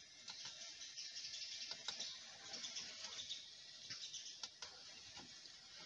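Faint, thin music from the car stereo, with scattered light clicks.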